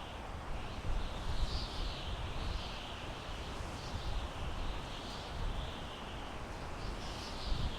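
Wind blowing through pine trees: a steady rushing hiss that swells and eases, over a low rumble of gusts.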